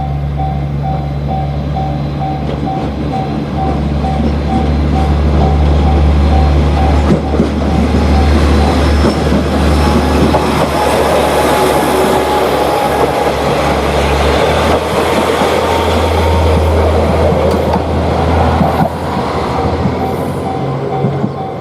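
A Japanese level crossing's alarm bell rings in a steady repeating kan-kan while a diesel railcar passes with a low engine rumble and rolling wheel noise. The train noise swells to its loudest through the middle and eases off near the end, when the bell stands out again.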